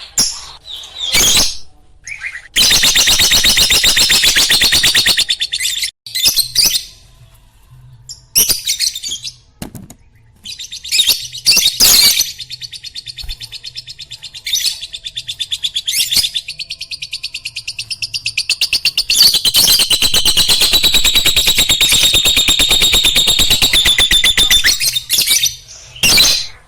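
Lovebird chirping: short high calls, and twice a long, very fast trill of many chirps a second, the second lasting about six seconds.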